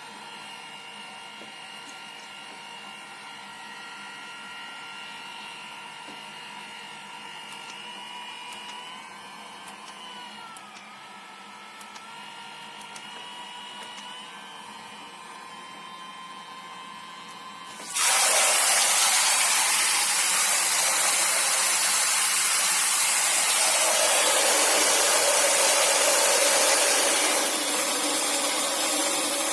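The electric pump of a rechargeable portable camping shower runs with a steady whine that dips in pitch and recovers about ten seconds in. About eighteen seconds in, water suddenly starts spraying with a loud, steady hiss that eases slightly near the end.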